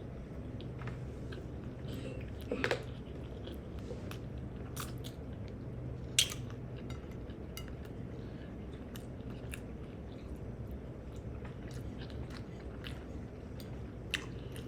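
A person chewing and biting food close to the microphone, with small wet mouth clicks and a couple of sharper clicks about two and a half and six seconds in.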